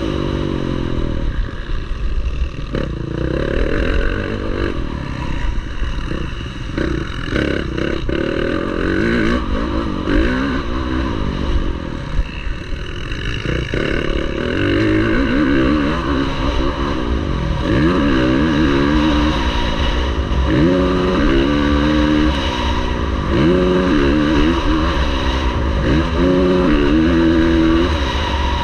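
Motocross bike engine revving hard and easing off again and again as it is ridden round the track, its pitch climbing and dropping several times, with a steady low rumble and some clatter underneath.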